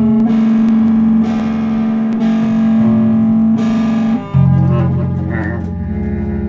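Music: an electric guitar with distortion and effects plays long held notes, moving to a lower note about four seconds in.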